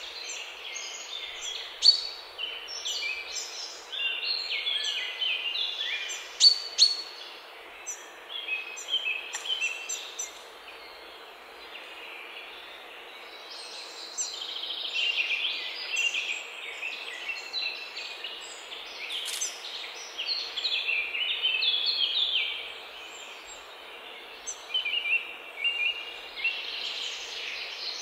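Songbirds singing, a dense run of quick chirps and trills, over a steady background hiss.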